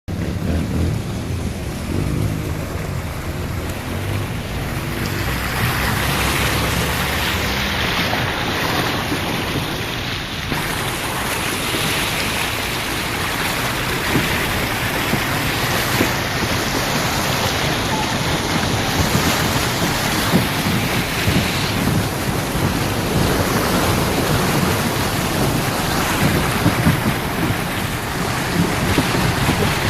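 Heavy rain pouring steadily during a thunderstorm, with wind.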